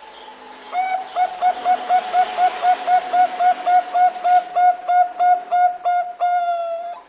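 Zebra dove (Bangkok perkutut) calling: a fast run of about twenty short, identical coo notes, about four a second, that ends in one longer held note.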